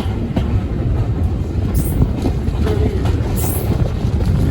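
Passenger carriage running along the track, a steady low rumble of wheels on rail heard from inside the train, with a couple of brief sharp clicks.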